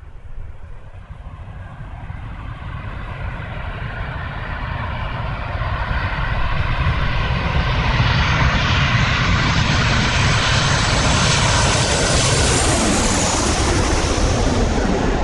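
A passing aircraft's engine drone that swells steadily for the first half, then holds loud, its pitch falling near the end as it goes by.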